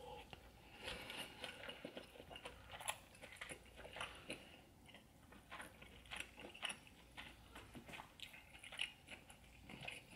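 Faint, close-miked chewing of a seafood boil in butter sauce: a steady run of soft, irregular wet clicks and smacks from the mouth.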